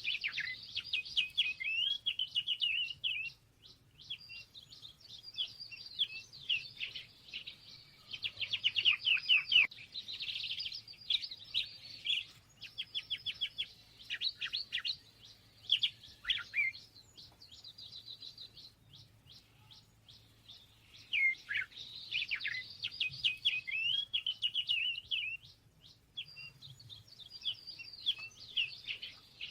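Small songbirds at a backyard feeder singing and chirping: rapid, high-pitched warbling phrases and trills a few seconds long, repeated with short pauses between them.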